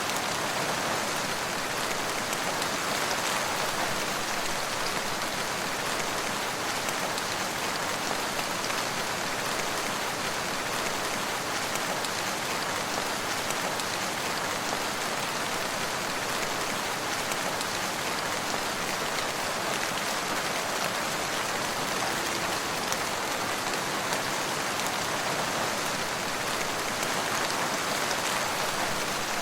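Steady rain falling: a constant, even hiss with fine scattered drop ticks.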